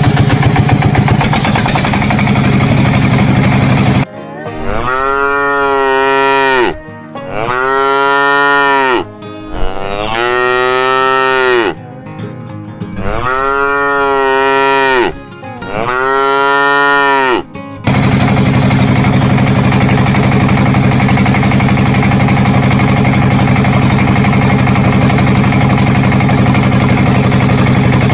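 A cow mooing five times in a row, each moo a long call that rises and falls. Before the moos and again after them, an engine runs steadily.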